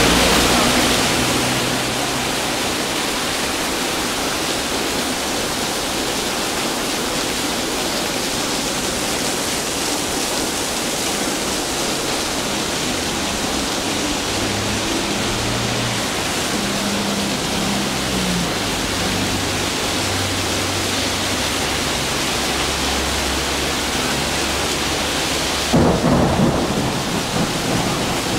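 Heavy rain pouring steadily onto a road and paving, with water splashing down off a bus-shelter roof onto the pavement. A brief louder rush near the end.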